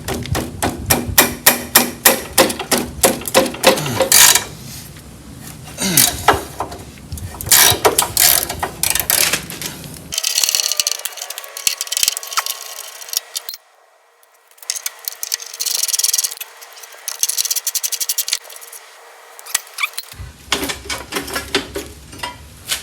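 Hand tools working the rusted header fasteners of a Type 4 VW engine: quick runs of socket-ratchet clicks with metal clinks and knocks. There is a short pause about fourteen seconds in.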